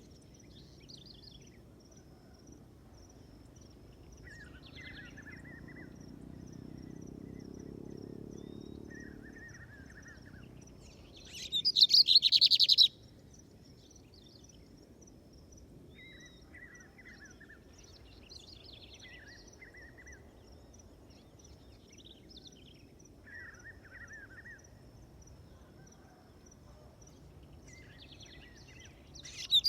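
Lined seedeater (bigode) songbird singing in the field: a loud, fast twittering phrase about twelve seconds in and another at the very end, with short, quieter phrases between. A faint, steady high-pitched drone runs underneath.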